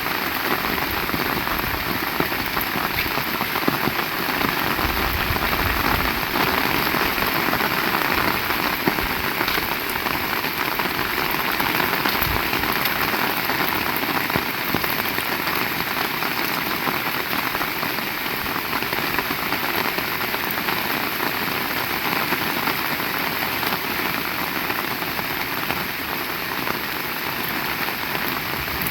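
Heavy rain pouring steadily, a dense continuous patter of drops.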